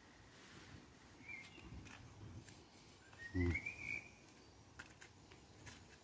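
A bird gives two short whistled calls: a brief chirp about a second in, then a longer rising whistle about halfway through. A dull thump, the loudest sound, comes at the same moment as the second call, over scattered faint clicks.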